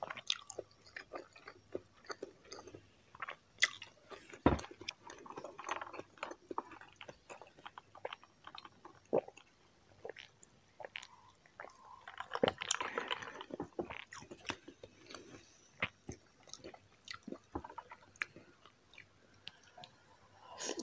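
Close-miked chewing and biting of braised pork belly humba and rice: many short, wet mouth clicks. The chewing turns denser and louder about twelve seconds in for a couple of seconds.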